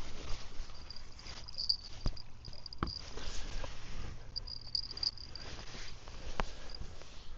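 Insects chirping in short, high trills that come and go, with a few sharp clicks and knocks over a low steady rumble.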